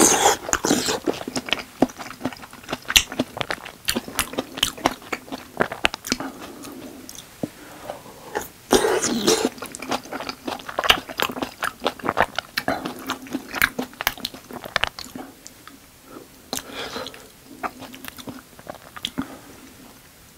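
Close-miked eating of tteokbokki: the soft, sticky chewing of rice cakes and fish cake, with many wet mouth clicks and smacks throughout. There is a slurp as food is sucked off the wooden spoon at the start, and another louder stretch about nine seconds in.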